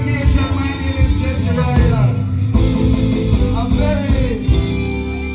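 Live reggae band playing, with a male vocalist singing over steady bass and drums; held chord tones come in near the end.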